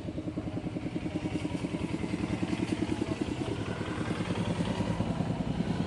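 Mahindra Scorpio BS6 diesel engine idling with an even, rapid pulsing beat that grows slightly louder.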